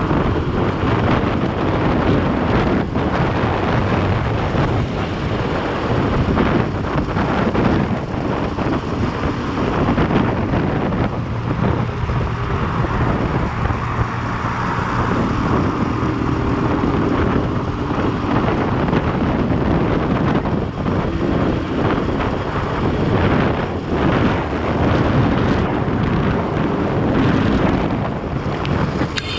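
Motorcycle riding at speed in the rain: heavy wind buffeting on the microphone over the engine and road noise, steady throughout.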